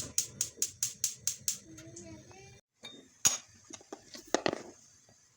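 Glass or china kitchenware clinking: a quick run of about eight light clinks, about five a second, then a single louder clink and a few more knocks. A cat meows briefly in between.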